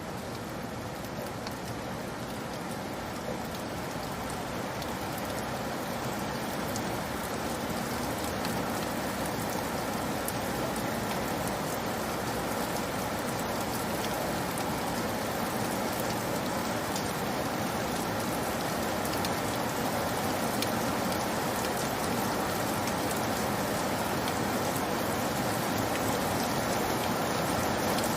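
Steady rainfall, an even hiss of many drops with faint scattered patters, slowly growing louder.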